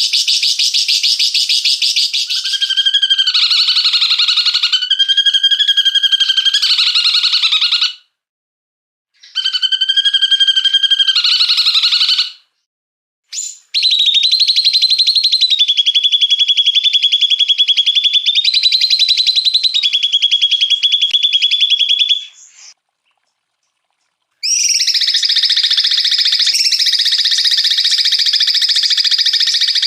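Small songbirds giving long, very fast, harsh buzzing trills ('tembakan kasar'), the pitch stepping up and down between a few levels. The recording cuts off abruptly three times with short silences in between, as in an edited master recording for training birds.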